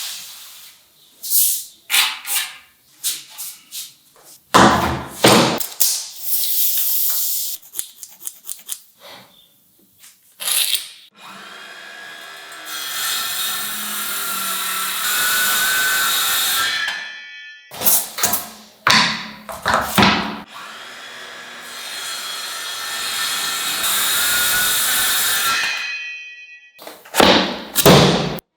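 Woodworking shop sounds: bursts of short strokes and knocks on wood, and two longer runs of a power tool, each several seconds, with a whine that wavers in pitch.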